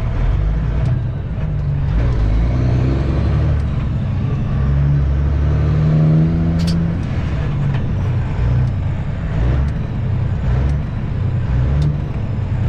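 Semi-truck diesel engine heard from inside the cab while driving, its note rising about five seconds in as the truck pulls through the gears, with one short sharp click a little after. The driver is working the manual transmission up into high range, which he sometimes has trouble engaging.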